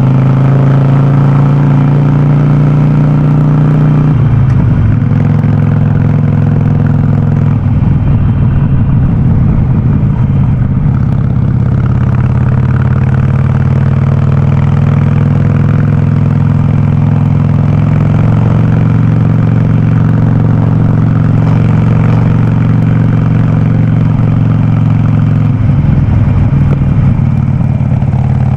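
Harley-Davidson Sportster 48's air-cooled V-twin running loud through a VnH aftermarket exhaust on the move. Its steady note breaks up and shifts in pitch a few times: about four seconds in, around eight to eleven seconds, and near the end.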